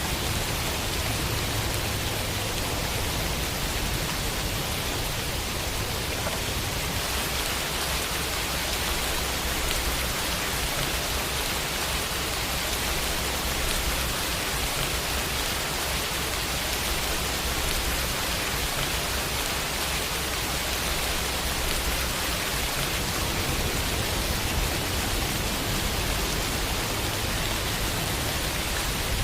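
Steady summer rain falling on a window, an even hiss of many drops without let-up.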